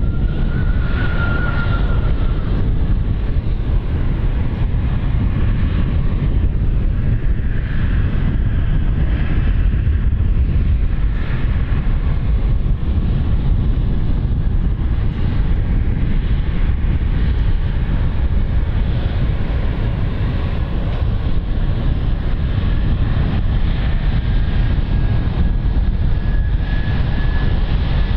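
Aircraft engines running, a steady loud rumble with a thin whine that rises slightly near the end, with wind buffeting the microphone.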